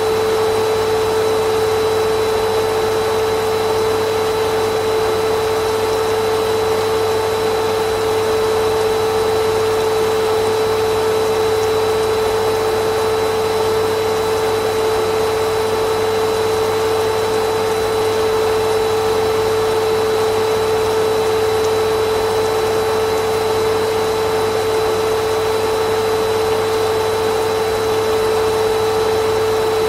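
Vacuum cleaner motor running steadily: an even rushing hiss with a constant high whine.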